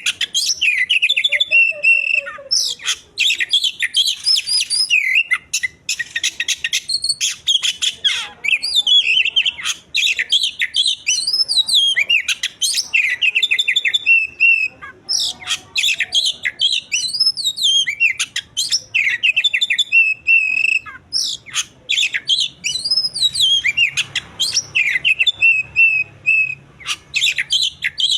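A songbird singing a long, continuous, varied song of chirps, rapid trills and rising and falling whistles, with many sharp clicks between phrases.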